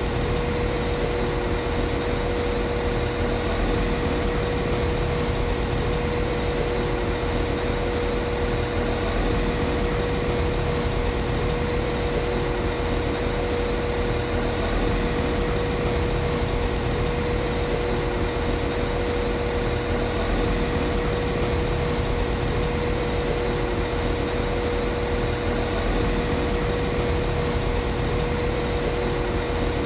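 Class 195 CAF Civity diesel multiple unit's underfloor MTU diesel engine idling steadily, a constant low rumble with a steady whine held at one pitch throughout.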